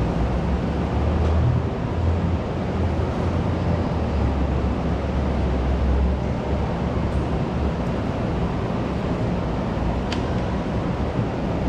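School canteen ambience: a steady, dense background din with a low rumble, heavier in the first half, and a faint click about ten seconds in.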